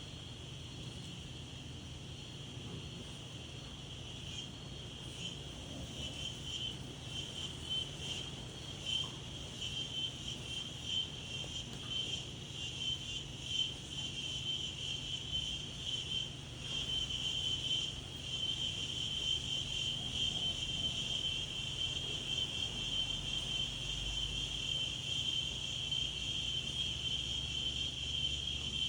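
A chorus of insects trilling, a steady high shrill buzz with a fast pulsing texture that grows louder about halfway through, over a low steady rumble of wind.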